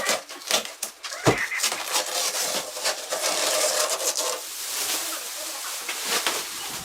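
A power tool's steady whine cuts off at the start, followed by scattered clicks and knocks, a sharp knock about a second in, and rubbing, scraping noise of parts being handled.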